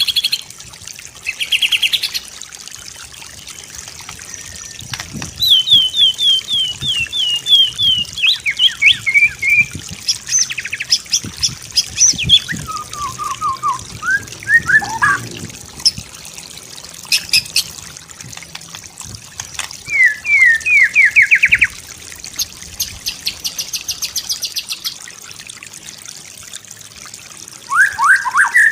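White-rumped shama (murai batu) singing varied phrases. These include runs of quick, repeated downslurred whistles, rapid trills and fast rattling note strings, separated by short pauses.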